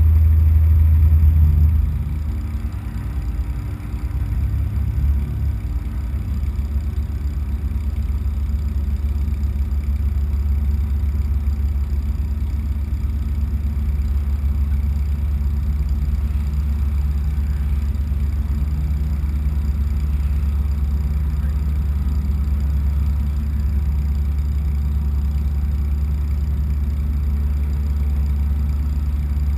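Race car engine idling while stationary, heard from inside the cabin as a steady low drone. It is louder for the first two seconds, then drops and settles.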